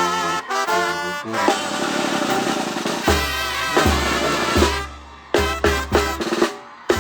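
Live banda music: held brass notes, then a snare roll with cymbals and a series of heavy bass-drum hits with gaps between them, like a song's closing hits.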